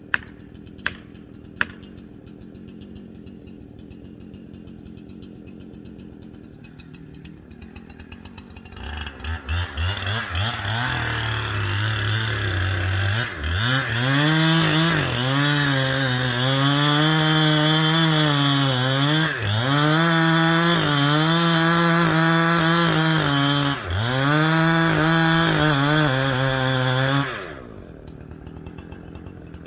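A few sharp clicks, then a two-stroke chainsaw starts about eight seconds in. It runs at high revs, its pitch sagging and recovering again and again as it cuts into the silver maple, and it cuts off near the end.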